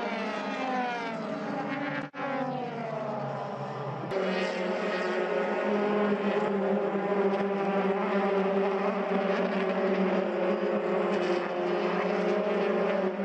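Racing car engines: first an engine note falling in pitch as a car comes off the throttle, then, after two abrupt cuts, a steady engine drone held at constant revs.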